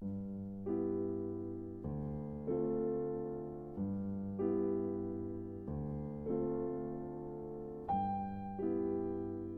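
Slow, gentle piano music: soft chords and notes struck about once a second and left to ring and fade.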